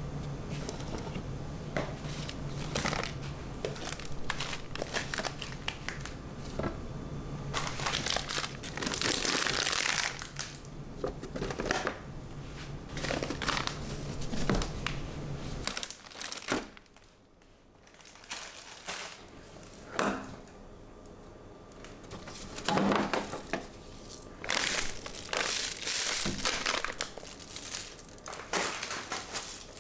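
Packaging being handled, crinkling and rustling in irregular bursts, over a low steady hum. The hum stops about halfway through, and after a brief near-silent gap the crinkling resumes.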